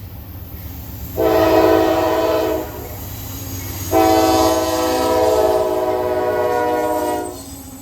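CSX freight locomotive's air horn sounding twice, a short blast and then a longer one of about three seconds, over the steady rumble of the passing train.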